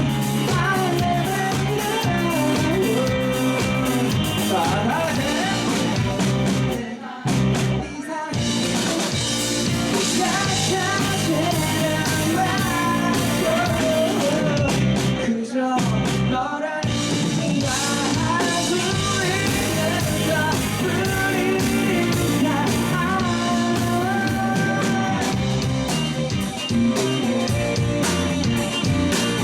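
Rock band playing live with a singer, guitars and drum kit, with two short breaks in the music.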